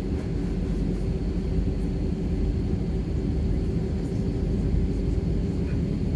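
Commercial jet airliner heard from inside the cabin: a steady low rumble with a faint even hum, no rise or fall in level.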